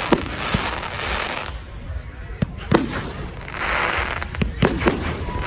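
Fireworks display: sharp bangs of bursting shells at uneven intervals, about eight in all, with a quick cluster of bangs near the end, over a steady hissing background.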